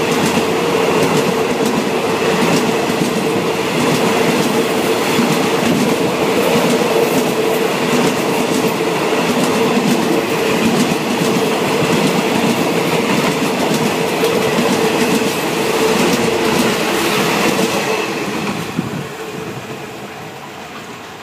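Passenger coaches of a Thai rapid train rolling past at speed: a dense clatter of wheels over the rails with a steady tone held underneath. The sound fades away from about eighteen seconds in as the last coach goes by.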